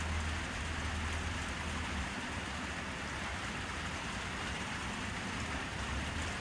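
Steady rain falling, an even dense hiss of drops. A low rumble sits under it for about the first two seconds.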